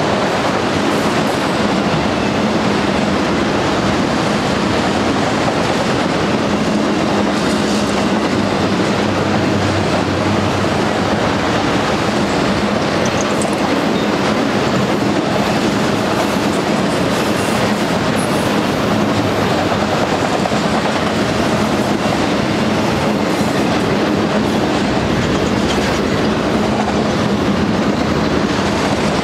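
Auto-rack freight cars rolling past on steel wheels: a loud, steady rumble of wheels on rail.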